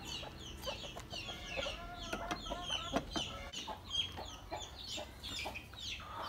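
Backyard chickens clucking and peeping: many short, high chirps in quick succession, with a few lower calls and light clicks among them.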